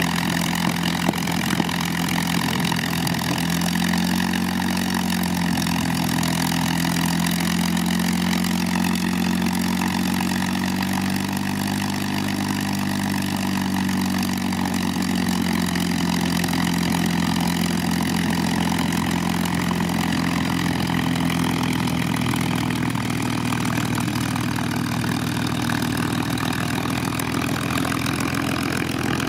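P-51D Mustang's Packard-built Merlin V12 engine idling steadily after start-up, its pitch stepping up slightly about four seconds in and wavering a little.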